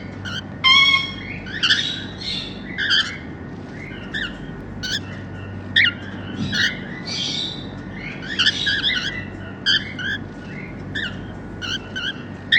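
Normal grey cockatiels chirping and squawking in a quick, uneven series of short calls, with one louder, drawn-out squawk about a second in.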